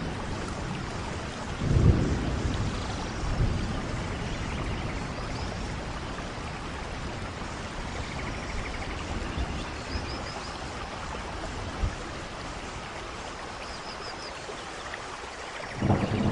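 Steady rain falling, with low rumbles about two seconds in and again near the end.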